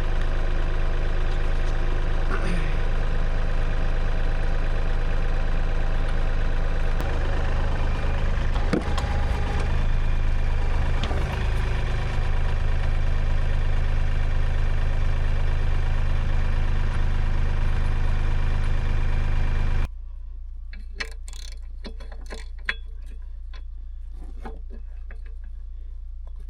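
Tractor engine idling steadily, then cut off abruptly about 20 seconds in. After that only a faint low hum remains, with a few light metallic clicks.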